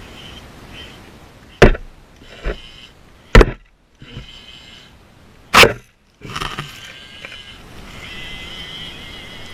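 Four sharp knocks or impacts, irregularly spaced, over a faint high chirping background.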